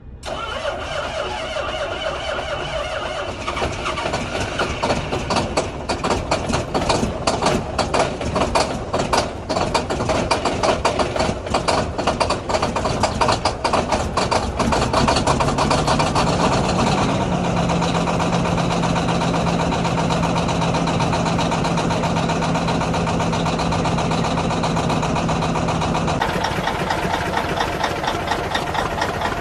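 Diesel truck engine cold-started, running rough and uneven at first, then settling to a steadier diesel idle with a steady whine over it.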